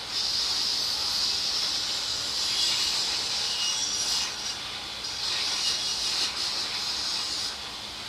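Carburetor parts being buffed: a steady rubbing, hissing noise in stretches of a few seconds, easing off briefly about four and a half seconds in and again near the end.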